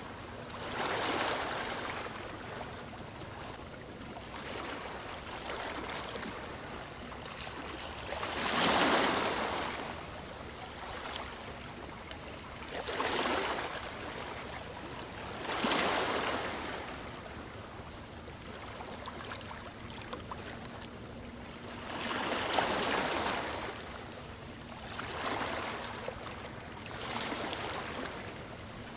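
Ocean waves washing onto a shore, each wave a swell of rushing water that rises and fades every few seconds; the loudest breaks about nine seconds in.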